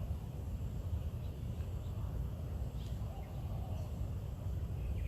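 Outdoor ambience: a steady low rumble, with a few faint, brief bird chirps about 2 and 3 seconds in and again near the end.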